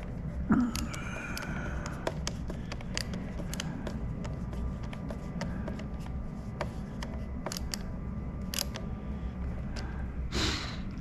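Small plastic clicks and taps from handling the parts of a Logitech Extreme 3D Pro joystick, with a louder knock about half a second in and a short rush of noise near the end, over a low steady hum.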